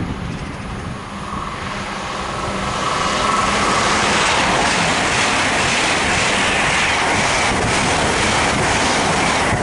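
Two coupled Great Western Railway Class 800 IET trains passing at about 125 mph: a rushing noise of wheels and air that builds over the first few seconds and then stays loud and steady as the train goes by. A faint steady high tone can be heard early on.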